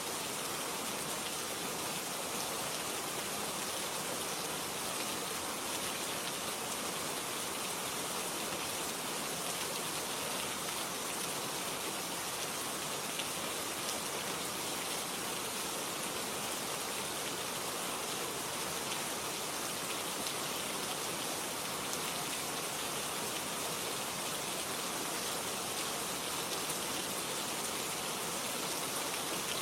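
Steady rain falling: an even hiss with a fine patter of drops that neither swells nor fades.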